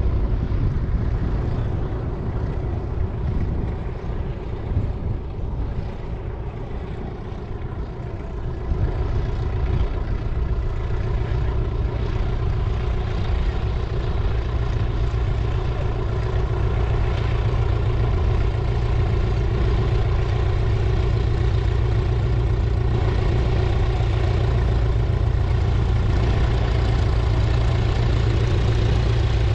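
Light aircraft piston engine running steadily at low power, getting louder about eight seconds in.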